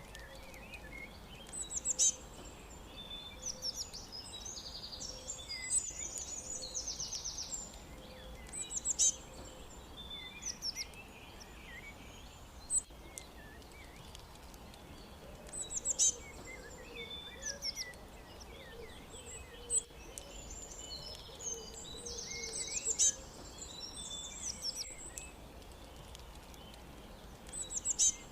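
Several songbirds chirping and singing over a steady background hiss. One loud, high song phrase comes back about every seven seconds, with quicker trilling phrases in between, and a faint low note repeats for a few seconds near the start.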